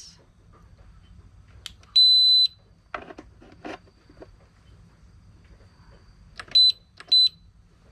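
ALLPOWERS S2000 Pro portable power station's buzzer beeping as it is powered up with its panel reconnected: one half-second high beep, then two short beeps near the end. A few light clicks come in between.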